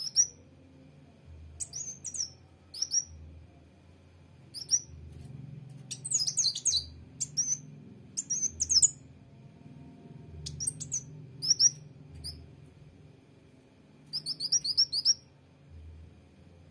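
Sunbird calling: short, sharp, high-pitched chirps at irregular intervals, now and then run together into quick bursts of several notes.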